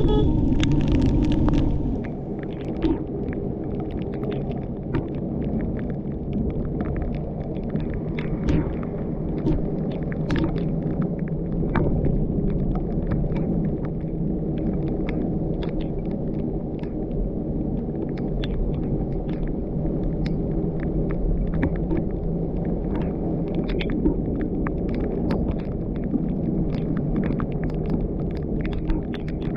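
Car driving on a wet mountain road: a steady low rumble of engine and tyres, with scattered light ticks. It is louder for the first couple of seconds, then settles.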